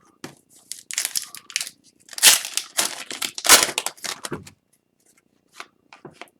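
Plastic wrapper of an Upper Deck Series 2 hockey card pack being torn open and crumpled, a run of crinkling rips loudest about two to four seconds in, then a few light ticks.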